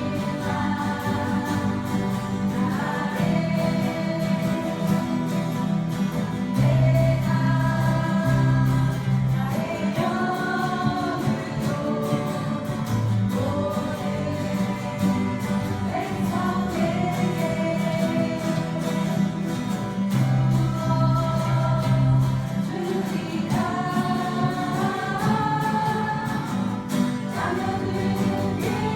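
Voices singing a Korean worship song together, accompanied by strummed acoustic guitars.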